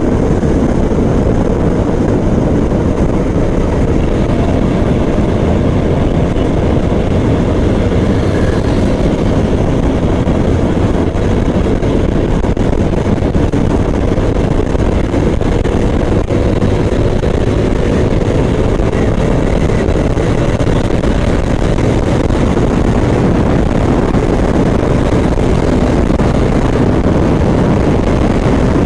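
Motorcycle riding at steady highway speed: the engine runs with a pitch that drifts slightly, under a loud, steady low rumble of wind and road noise.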